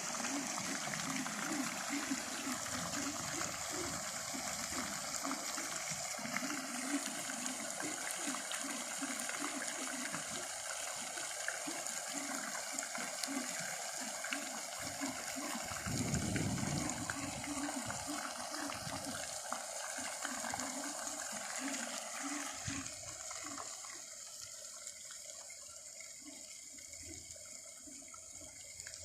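Steady rush of running water, growing fainter over the last few seconds.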